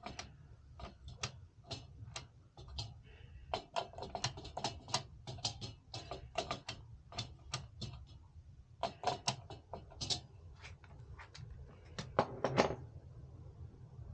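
A run of irregular light clicks and knocks, several a second with brief pauses, the loudest near the end, over a steady low hum.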